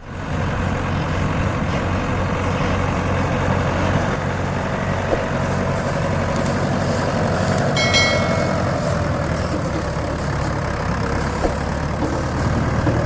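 Mahindra 585 DI tractor's four-cylinder diesel engine running steadily. A brief high-pitched tone sounds about eight seconds in.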